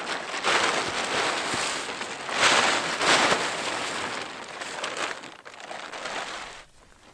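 Tarp rustling and crinkling in uneven swells as it is handled, loudest a little past the middle, cutting off abruptly near the end.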